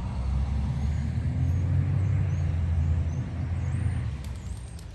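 A passing road vehicle: a low engine rumble that swells to a peak and fades away over a few seconds.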